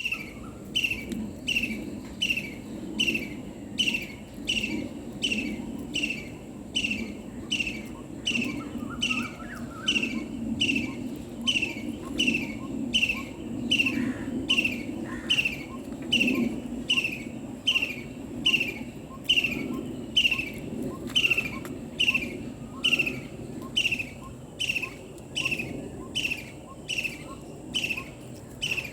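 White-breasted waterhen (dahuk) calling: one short, falling note repeated over and over at a steady pace, about four notes every three seconds.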